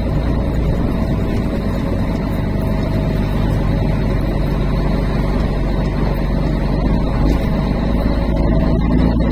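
Truck's diesel engine running steadily with road noise while driving.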